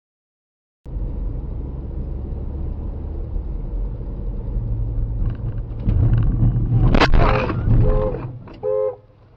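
Car's low driving rumble, growing louder, then a sharp impact bang about seven seconds in. Three short, evenly spaced beeping tones follow the bang.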